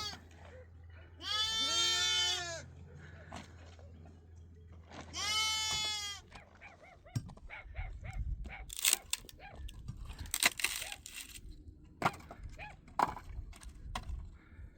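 Livestock bleating: two long calls, about a second in and about five seconds in. In the second half come a run of sharp cracks and knocks, the loudest sounds here.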